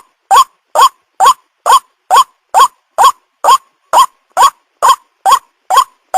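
White-breasted waterhen calls used as a lure: one short, upward-curving note repeated steadily a little more than twice a second, about fourteen times.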